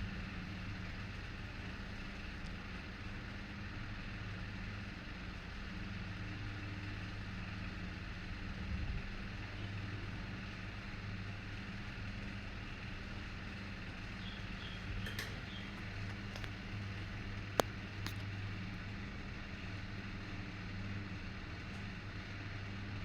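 Electric furnace running just after its heating program starts: a steady low electrical hum, with a few faint clicks about two-thirds of the way through.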